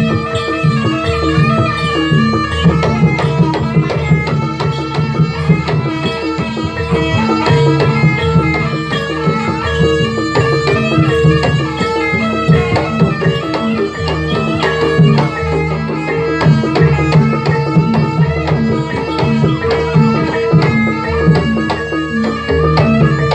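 Javanese jaranan music played live by a gamelan ensemble: hand drums beat a busy, continuous rhythm over ringing pitched percussion and a steady held note.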